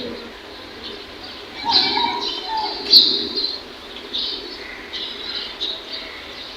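Birds chirping in short, repeated high calls, loudest about two and three seconds in.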